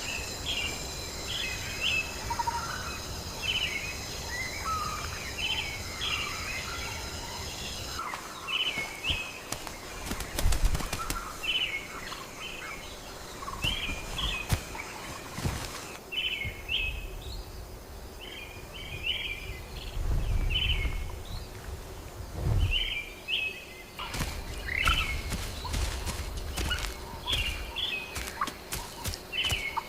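Rainforest birds giving short chirping calls over and over. A steady high whine sits above them for roughly the first eight seconds, and a low rumble comes and goes underneath.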